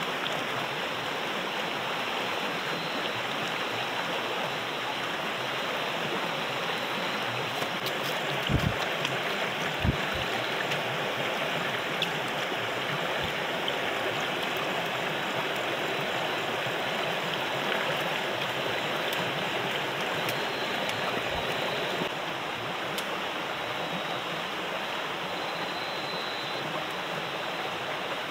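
Steady rush of flowing river water, with a couple of brief dull knocks about a third of the way in.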